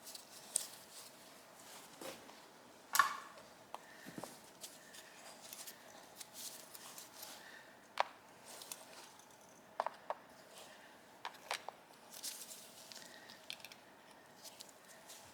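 Hand tools clicking and scraping on a Yamaha VMAX carburetor while working at a seized screw: scattered light metallic clicks and taps, the loudest about three seconds in.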